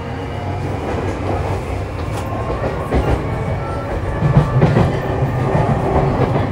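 JR East E235-0 series Yamanote Line electric train running along the track, a steady rumble with a thin whine over it. Wheels clack over rail joints about three seconds in and again in a cluster around four to five seconds in.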